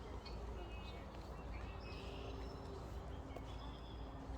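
Faint, scattered wild bird chirps over a low, steady background rumble.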